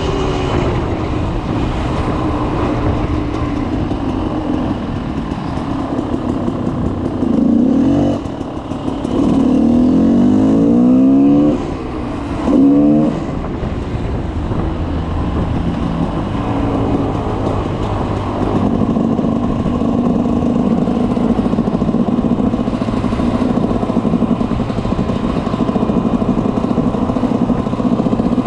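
2004 GasGas 300 EC two-stroke single with an FMF Powercore 2 silencer, settling from a rev to a steady idle, then blipped up three times in short bursts about a third of the way in before running steadily again.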